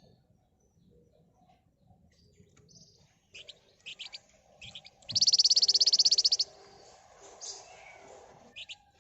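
Flamboyan (Javan fulvetta) singing: a few short, sharp high chirps, then about five seconds in a loud, very rapid trill of closely packed notes lasting about a second and a half, then a couple more chirps near the end.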